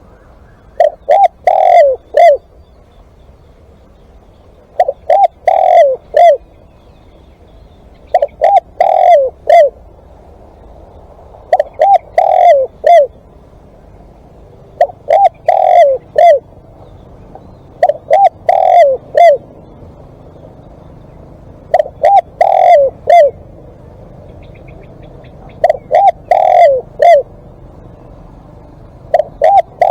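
Spotted dove cooing its song: a phrase of four or five falling coos, repeated about nine times, every three to four seconds.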